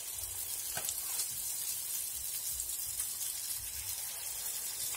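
Choux-dough fritters (buñuelos de viento) sizzling steadily in a pan of hot frying oil, with one light click just under a second in.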